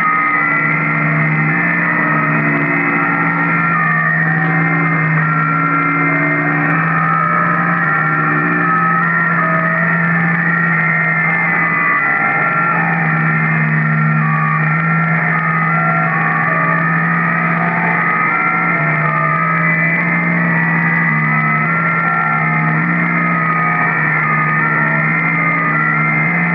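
Shortwave receiver tuned to the 40-metre band, playing a strange, weak but steady signal over hiss: several steady tones sounding at once, each jumping between fixed pitches every second or so, some low and some high.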